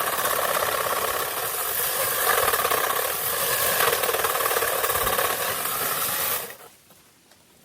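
A handheld power tree-trimming tool runs steadily with a fast rattle, then stops suddenly about six and a half seconds in.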